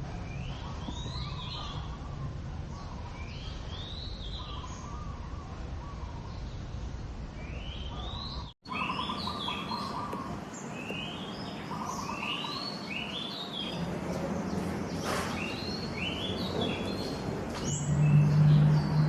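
Songbirds calling in trees, a short rising-and-falling phrase repeated every second or two over a lower pulsing call. A low hum swells up near the end.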